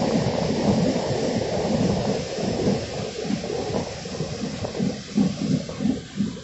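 A moving train's running noise heard from a carriage window: an uneven low rumble under a steady rush, growing somewhat quieter toward the end.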